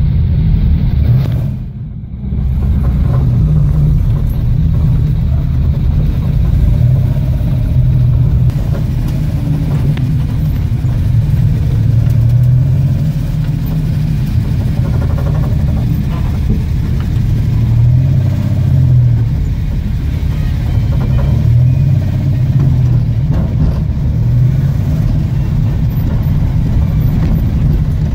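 Ford Capri race car's engine heard from inside the cabin, running at low revs with the car creeping along, a steady deep rumble that swells and eases now and then. The sound drops briefly about two seconds in.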